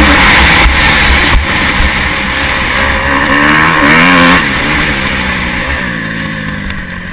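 Motocross bike engine heard close from an onboard camera, revving hard with its pitch rising and falling as the throttle opens and closes, over a steady rushing noise. A little over four seconds in it drops lower and quieter as the throttle is eased.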